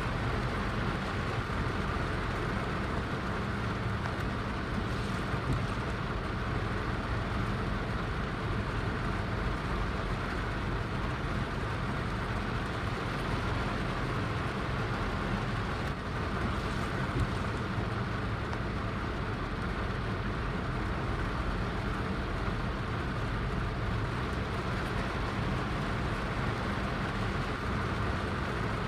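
Heavy rain falling, a steady even rush with no breaks.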